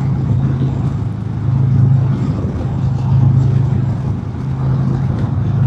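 Harley-Davidson Milwaukee-Eight V-twin running steadily at highway cruising speed, a deep, even drone with gentle swells, under rushing wind and road noise on a helmet microphone.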